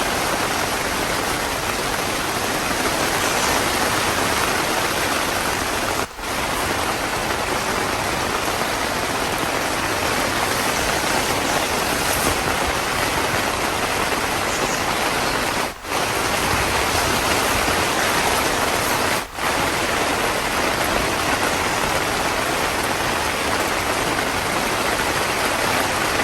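Heavy rain falling steadily, a dense even hiss that drops out briefly three times.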